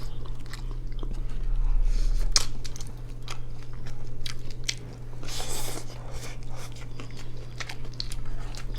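Close-miked mouth sounds of a person biting and chewing soft braised pork adobo: many short wet clicks and smacks, with a longer noisy chewing burst about five and a half seconds in, over a steady low hum.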